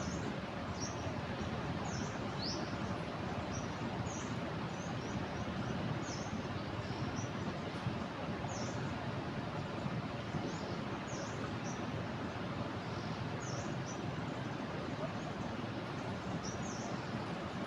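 Steady rush of a flooded river pouring over a weir, with small birds giving short, high chirps again and again throughout.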